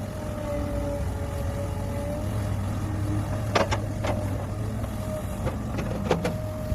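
Large diesel mining machinery running steadily at a constant pitch. Several short sharp knocks come in a cluster from about three and a half to six and a half seconds in.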